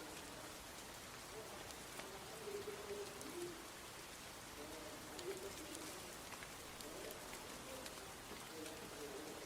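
Steady rain falling, an even hiss with scattered sharp drop ticks. A bird's low, repeated calls come through the rain every second or two.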